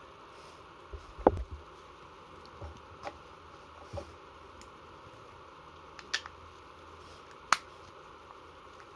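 Scattered sharp clicks and knocks of a small gas model revolver being handled, its parts tapping and clicking: a cluster about a second in, then single clicks spread through the rest, one sharp click near the end.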